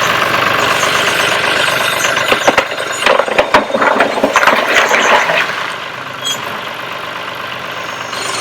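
Four-wheel-drive tractor engine running, with a stretch of clattering knocks in the middle before it settles to a steadier, quieter run.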